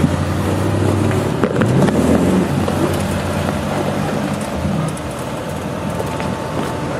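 Off-road 4x4's engine running under load, revving up about two seconds in and then settling, with a few sharp knocks.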